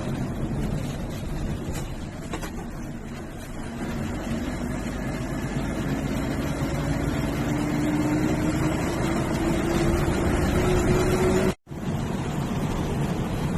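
MSRTC bus's diesel engine pulling under way with road noise, its pitch rising steadily as the bus gathers speed. The sound drops out for an instant near the end.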